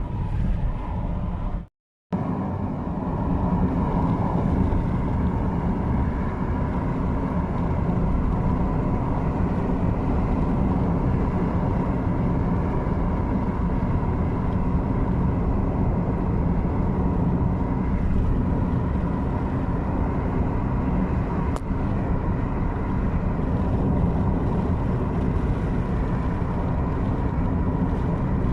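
Car driving along: a steady rumble of engine and tyre noise. It drops out completely for a moment about two seconds in, then carries on unchanged.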